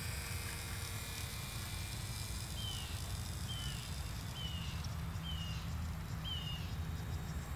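Low wind rumble on the microphone. From about two and a half seconds in, a bird repeats a short downward-slurred call about once a second, five times.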